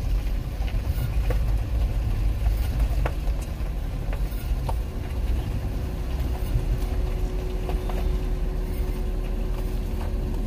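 Pickup truck creeping slowly in low gear, with a steady low engine and road rumble and scattered small clicks and rattles. A steady hum comes in about halfway through.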